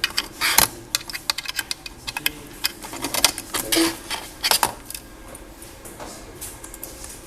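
An irregular run of sharp clicks and taps from handling a laptop and small electronics, thick for the first five seconds and then thinning to a few.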